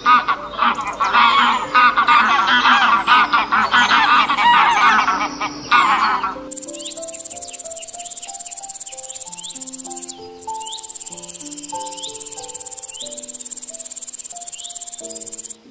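Canada geese honking in a noisy group for the first six seconds or so. Then a bush cricket's steady, fine-pulsed high buzzing stridulation, which breaks off briefly about ten seconds in.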